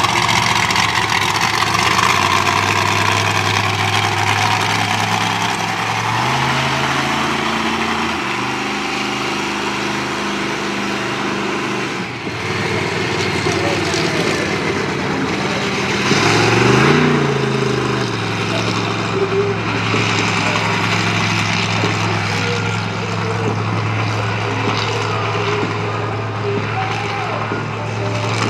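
Monster truck engine running at a steady, loud idle. Its note steps up a couple of times, and one brief rev rises and falls about seventeen seconds in. Background chatter from the crowd runs underneath.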